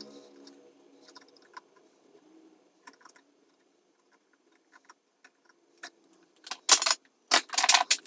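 Small metal hand tools and parts clicking and clinking on the amp chassis during resistor work, played back sped up, with two louder clattering bursts near the end.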